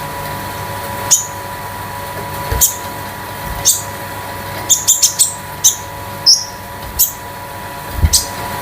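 A konin songbird giving short, sharp, high chirps at irregular intervals, several in quick succession about halfway through, over a faint steady hum.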